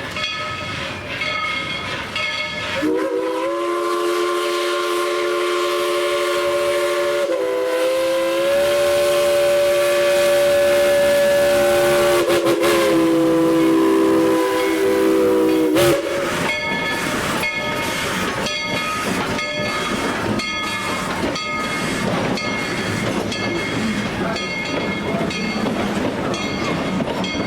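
Steam locomotive No. 190, a narrow-gauge 2-8-2, sounding one long whistle blast lasting about thirteen seconds, starting about three seconds in, its pitch shifting slightly a couple of times. Before and after the blast the moving train is heard with a quick, regular beat of exhaust and wheel noise.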